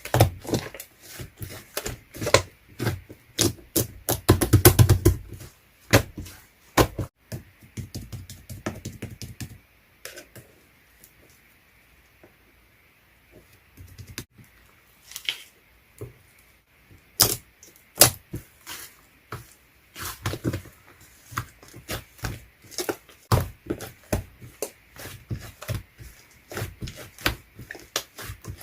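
A rapid, irregular series of clicks and taps, with a pause of a few seconds partway through.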